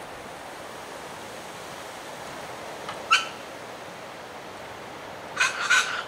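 Short, loud bird calls: one about three seconds in, then two in quick succession near the end, over a steady background hiss.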